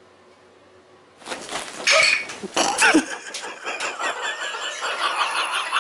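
Bobcat growling and yowling, starting suddenly about a second in, with falling wails mixed into a rough, noisy snarl.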